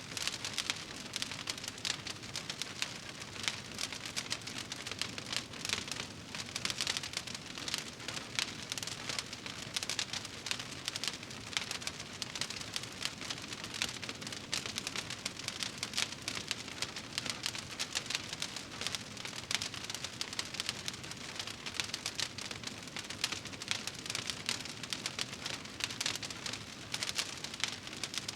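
Wood fire burning in a fireplace, crackling continuously with a dense stream of small pops and snaps over a soft hiss.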